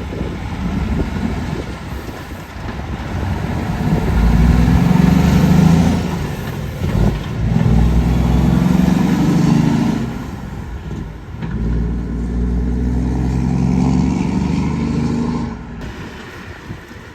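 Road traffic passing: the engine sound of three vehicles swells and fades in turn, about four, eight and twelve seconds in.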